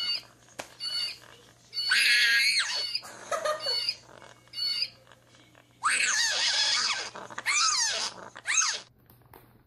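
Bird calls: short high chirps repeated through the first five seconds, with loud harsh calls about two seconds in and again from about six seconds until near the end.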